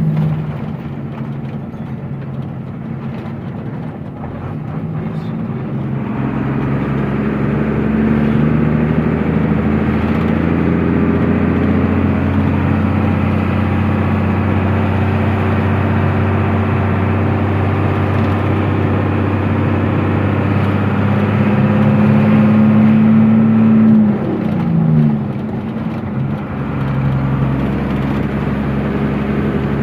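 Truck engine running steadily. It grows louder about six seconds in, and its pitch drops briefly near the end as the revs fall.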